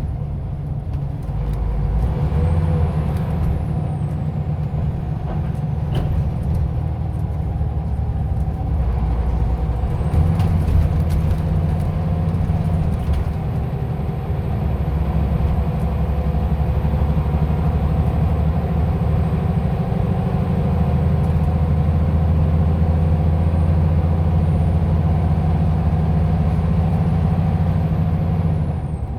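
Scania OmniLink city bus driving, its diesel engine running steadily with road rumble and growing heavier about ten seconds in and again about twenty seconds in.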